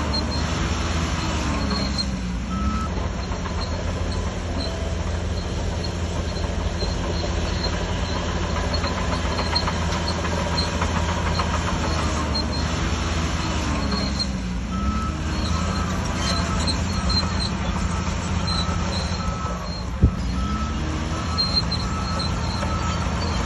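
Shantui DH17C3 bulldozer's diesel engine running steadily under load, its pitch dipping and rising a few times as the machine works. A short beep repeats about once a second through the second half, and a single sharp clank comes near the end.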